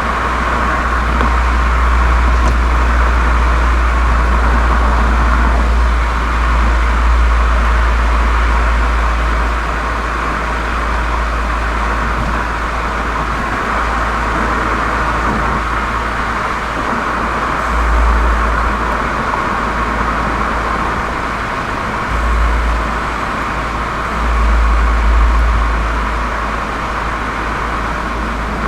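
Volkswagen Golf 7 GTI's turbocharged 2.0-litre four-cylinder running through a Cox aftermarket muffler, a steady drone with a low exhaust rumble that swells and eases several times.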